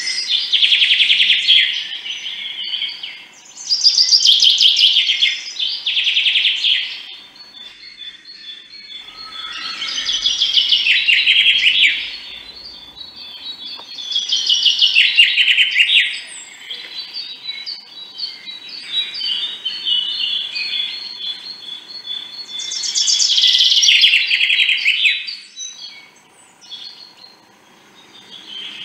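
Birdsong: a songbird singing loud, rapid trilled phrases of two to three seconds each, repeated about six times with quieter gaps between.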